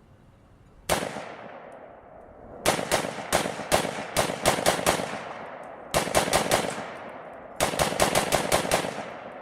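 300 AAC Blackout AR-15 short-barreled rifle firing: a single shot about a second in, then three quick strings of rapid semi-automatic shots, several a second. The rifle is cycling without a malfunction on its heavier full-auto bolt carrier group.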